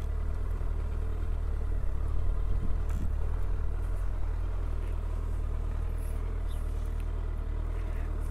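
Heavy motorcycle engine running at low speed, a steady low drone as the bike rolls slowly over a dirt road and pulls up.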